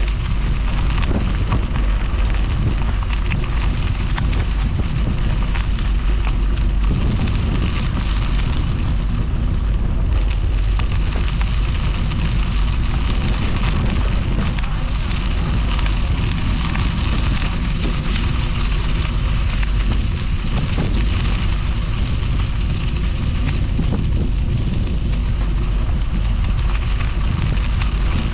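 Steady wind rush buffeting the microphone of a camera on a moving bicycle, with the bike's tyres rolling and crunching over a crushed-stone towpath.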